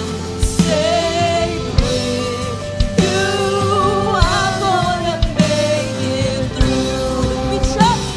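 Live worship band playing with a drum beat and singing voices, a song from a church worship set.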